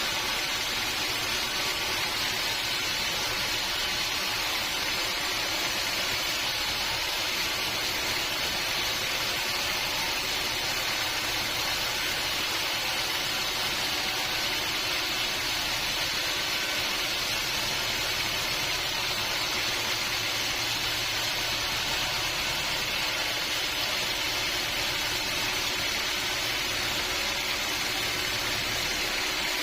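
Sawmill machinery running steadily, a constant even hiss with a faint hum and no break or change.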